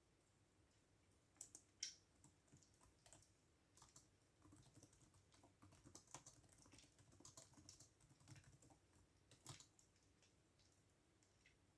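Faint typing on a computer keyboard: irregular runs of key clicks that pause about ten seconds in.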